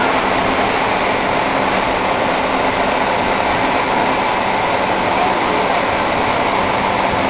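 Steady loud rushing noise with a low engine hum underneath, typical of a big truck running.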